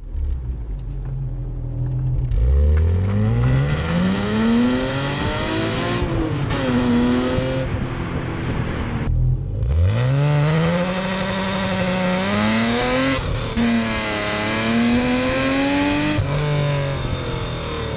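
BMW E36 M3's 3.2-litre S50B32 straight-six exhaust under hard acceleration, revs climbing through the gears. There are short dips at each upshift, about six, nine and a half and thirteen seconds in, then it holds a steadier, lower note near the end.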